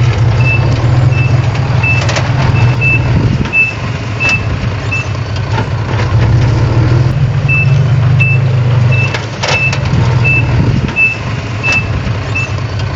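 Diesel engine of a heavy earthmoving machine running steadily, with a reversing alarm beeping about every 0.7 s. The alarm pauses for a couple of seconds midway and then resumes. There are a few metallic clanks.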